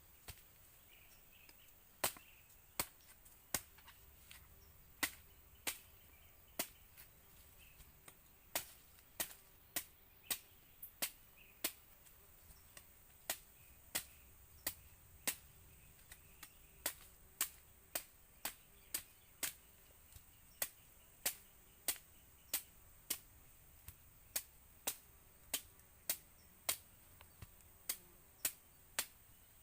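A steady series of sharp chopping strikes, about one and a half a second, that starts about two seconds in and keeps going.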